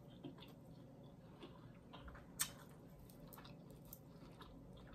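Faint close-up chewing and mouth clicks from a person eating a mouthful of fried fish, with one sharp click about two and a half seconds in.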